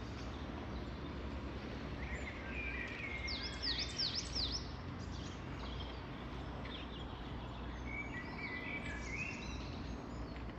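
Wild birds singing over a steady low rumble: a quick run of rising and falling whistled notes about three seconds in, and another short phrase about eight seconds in.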